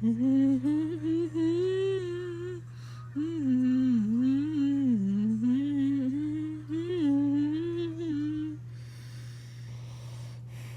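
A young teenager humming a wavering tune with closed lips, pausing briefly about three seconds in and stopping about a second and a half before the end, over a steady low background hum.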